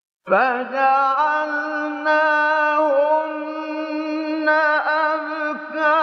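Male Quran reciter's voice in melodic tajweed recitation, beginning abruptly out of silence about a quarter-second in and holding long, ornamented notes with small pitch turns.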